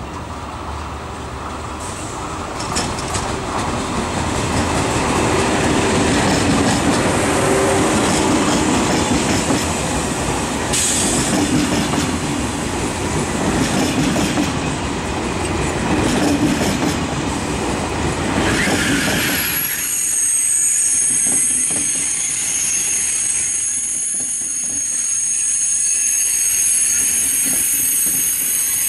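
A TGV high-speed trainset rolling into the station, its wheels and cars rumbling and clattering over the rails. About two-thirds of the way through, the rumble falls away and a high, steady squeal takes over as the train slows alongside the platform.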